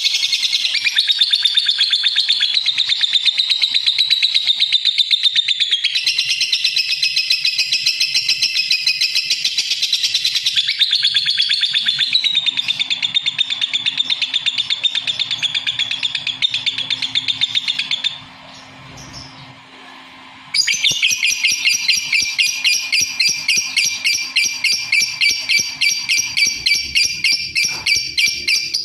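Lovebird chattering: a fast, continuous stream of high chirps and twitters that breaks off for about two seconds past the middle, then resumes.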